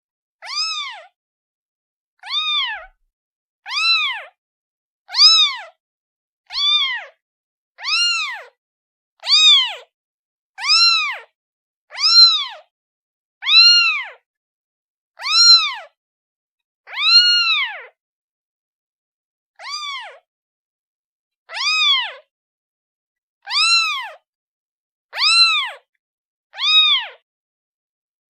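Kitten meowing over and over, a kitten calling for its mother. About seventeen high calls come roughly every second and a half, each rising and then falling in pitch, with a slightly longer pause a little past the middle.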